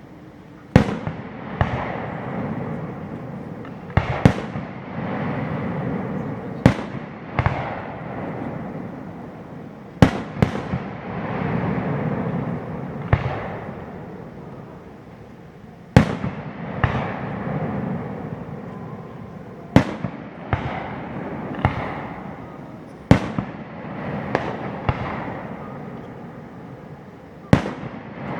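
Aerial firework shells bursting in a display: sharp bangs every one to three seconds, each followed by a rumbling echo that dies away.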